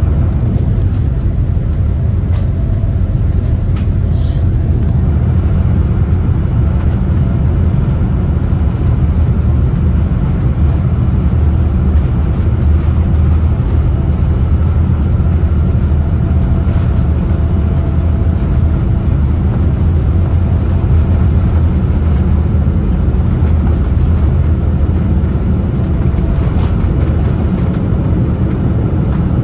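Cabin noise inside a Boeing 787-9 airliner: a loud, steady low rumble of the jet engines and airflow, with a few faint clicks in the first few seconds.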